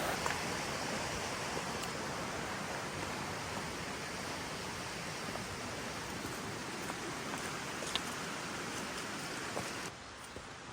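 Steady rushing noise of water, with a few faint clicks; it drops away abruptly near the end.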